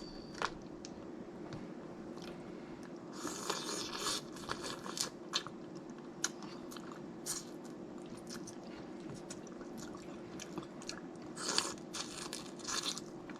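Crunching and chewing while eating snow crab legs. Sharp crackles of shell come in clusters, densest about three to five seconds in and again near the end, with chewing between them.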